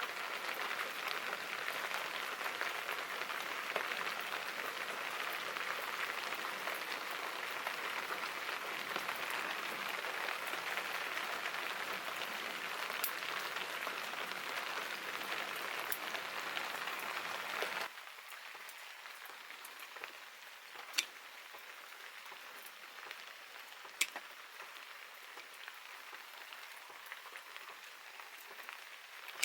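Steady rain hiss that drops abruptly to a lighter, quieter rain about two-thirds of the way through, with a few sharp clicks standing out.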